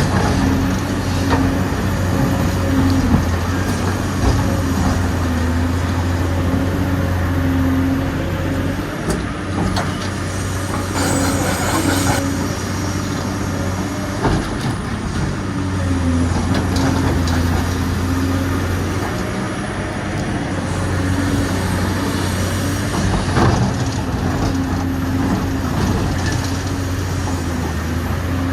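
Dubbed-in engine sound of a full-size construction machine running steadily under varying load, with a brief hiss about eleven seconds in and a few sharp knocks.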